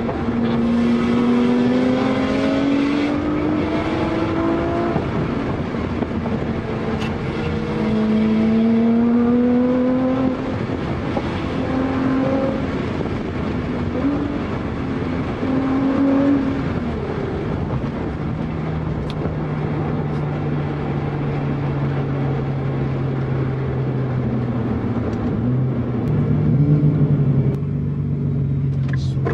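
Sports car engine heard from inside the cabin during a hard mountain-road run: the engine note climbs in pitch and breaks off again and again as the car accelerates and shifts or lifts between bends. In the last third it settles into a steadier, lower drone.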